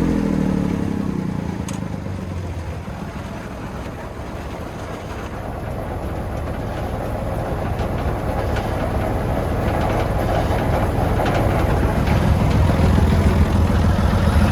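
Massey Ferguson 135 tractor engine running. Its pitch drops in the first second and it goes quieter, then it builds back up steadily towards the end.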